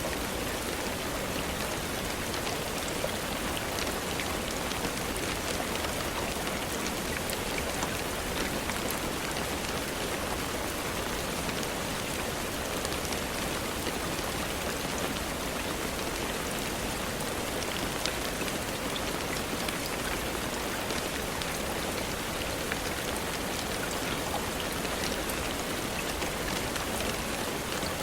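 Steady rain falling, a dense even hiss with countless small drops pattering on a surface.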